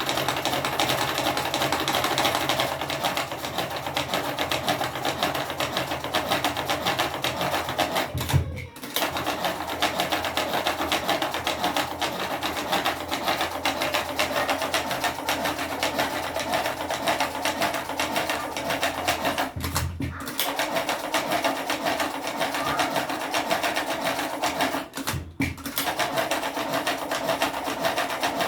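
Motorised cigarette rolling machine with a tobacco hopper running: a fast, continuous mechanical clatter of rapid clicks. It stops for a moment three times before starting again.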